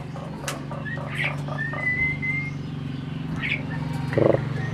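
Pied starling (jalak suren) calling: a string of short chirps and clicks, a thin drawn-out whistle about two seconds in, and a loud harsh rasping squawk near the end.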